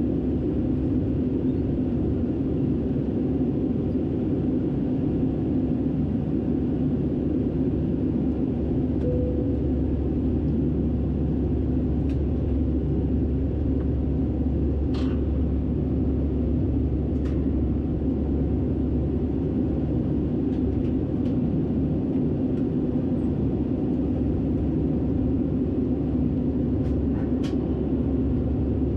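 Steady drone of cabin noise inside an Airbus A319-112 airliner, from its CFM56 engines and the airflow, holding an even level with a few faint ticks.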